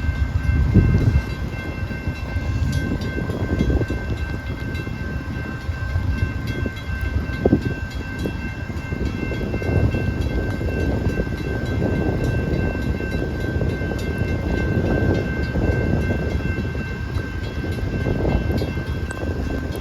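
Amtrak diesel locomotive running with a continuous, uneven low rumble, under a few thin steady high tones.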